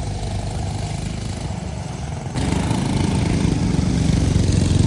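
Go-kart engines running with a steady small-engine buzz that gets suddenly louder about halfway through.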